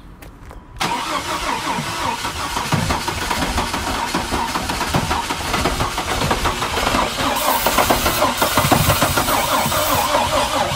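Chevy S10 engine catching about a second in, then running hard with the throttle held open, getting louder from about seven seconds in.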